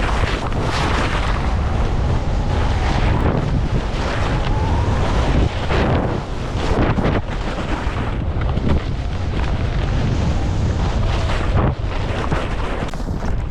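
Wind buffeting a helmet-mounted action-camera microphone during a fast ski descent, a steady loud roar. Over it come repeated swells of skis scraping and chattering over wind-crusted snow with a light dusting on top.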